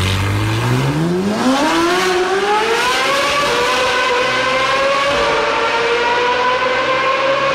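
Ferrari 458 Italia's naturally aspirated flat-plane V8 accelerating hard in a road tunnel. The revs climb steeply from a low rumble about a second in, then hold high with a short dip about five seconds in as it shifts up.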